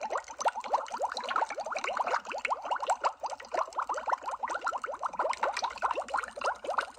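Underwater bubble sound effect: a dense, unbroken stream of small bubbles, each a quick rising blip, many to the second.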